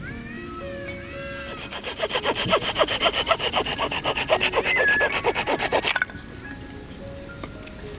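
Hand saw cutting through firewood in rapid back-and-forth strokes, about five a second, starting about two seconds in and stopping abruptly near the end.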